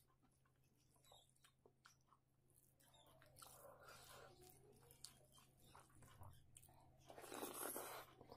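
Quiet close-up chewing and small wet mouth clicks of someone eating rice by hand, with a louder stretch of about a second near the end.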